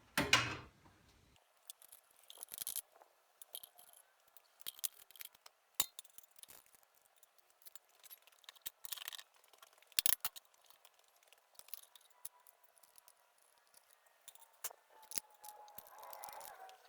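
Scattered metallic clinks and clicks of tools and metal parts being handled while a bolted mount is unbolted and taken off the drill press head.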